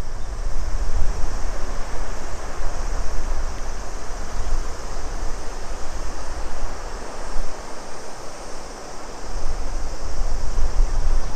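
The Shimanto River flowing, a steady rush of water, under a constant high-pitched chorus of cicadas. Wind buffets the microphone in low gusts, strongest near the start and the end.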